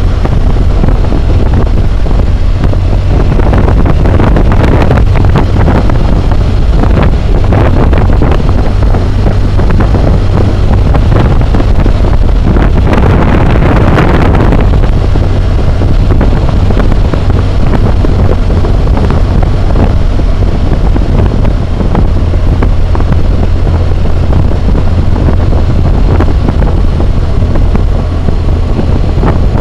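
Wind roar buffeting a helmet-mounted camera's microphone while riding a BMW motorcycle at road speed, over the low, steady drone of its engine. The wind noise swells briefly about halfway through.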